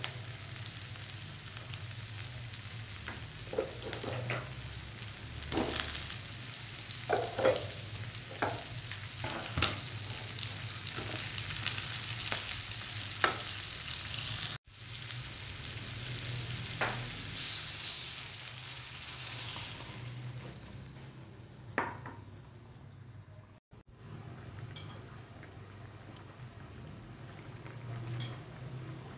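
Sliced chilies, shallots, garlic and tomatoes sizzling in hot oil in an aluminium wok while being stirred, with short clicks of the spatula against the pan now and then. The sizzle drops to a much quieter level after about twenty seconds.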